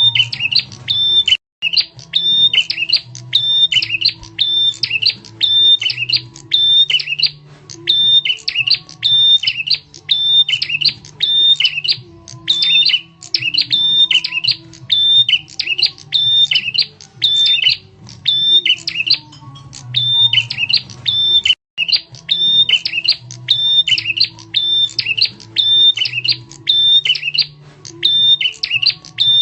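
A prenjak tamu bird's loud, sharp call repeated rapidly, about two calls a second in an even, looped pattern, played as a bird lure. Two very short breaks interrupt the loop.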